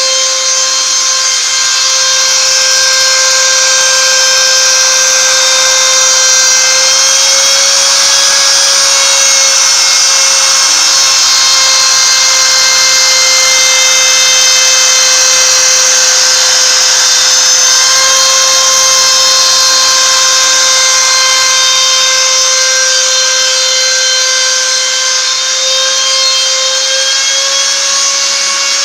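CNC router's 530 W trim-router spindle running with a steady high whine while engraving MDF, its pitch wavering slightly now and then as the bit cuts.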